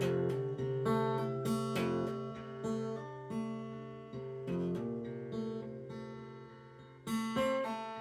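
Acoustic guitar playing chords between sung lines, with picked notes and strums; the chord rings out and fades from about five seconds in, then a fresh strum comes in near the end.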